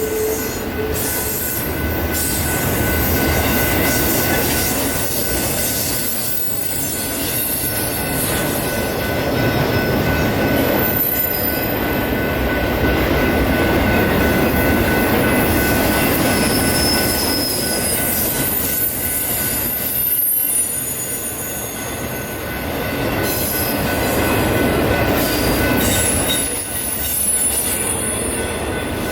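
A train rolling past with a continuous rumble of wheels on rail, over which the steel wheels squeal with thin, high-pitched tones that wander in pitch.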